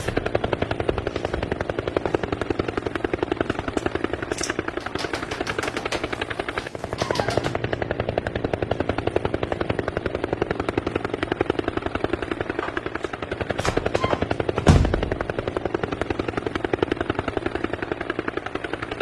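Helicopter rotor chopping steadily in a fast, even beat, with one heavier thump about three-quarters of the way through.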